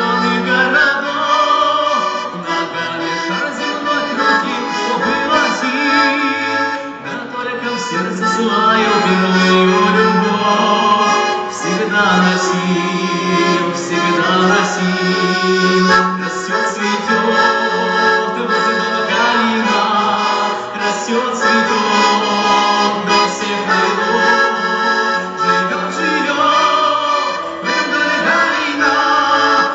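Accordion playing a continuous tune, its sustained chords and melody notes overlapping.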